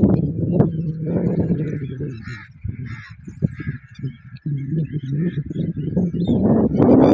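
A flock of birds calling, many short chirps and chatters overlapping, over a louder low hum whose pitch wavers.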